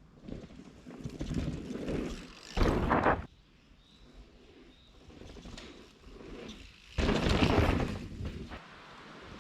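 Canyon Torque full-suspension mountain bike on a dirt trail: tyre and drivetrain noise rising and falling, with two loud bursts of noise, a short one about two and a half seconds in and a longer one about seven seconds in.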